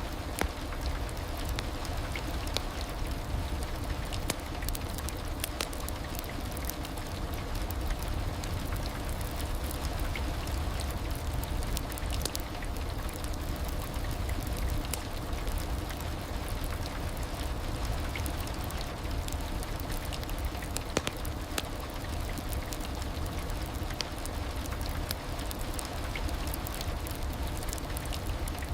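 Steady heavy rain, with a constant hiss, a deep low rumble and scattered sharp drop ticks.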